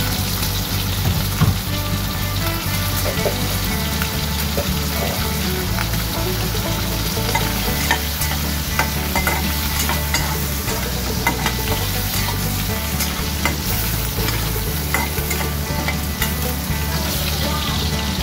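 Pork belly sizzling in hot oil in a wok, with a steady hiss and many small sharp crackles as the fat spits. A metal spatula stirs and scrapes the meat around the pan.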